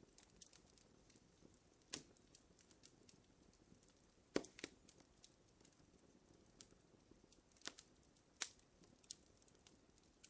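Wood fire in a fireplace crackling faintly, with irregular sharp pops over a soft hiss; the loudest pop comes a little under halfway through, and a cluster of pops follows near the end.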